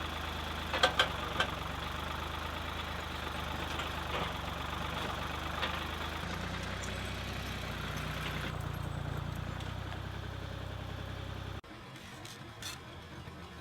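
Wood-Mizer LT28 portable sawmill's engine running steadily, with a few sharp knocks about a second in and a change in the engine note around six seconds. The engine sound cuts off abruptly near the end, leaving a quieter background.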